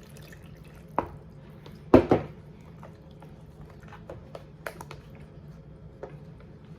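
Kitchen handling sounds while pineapple juice is poured into a jerk marinade: a sharp knock about a second in, a louder double knock about two seconds in, then small clicks and faint liquid sounds over a low steady hum.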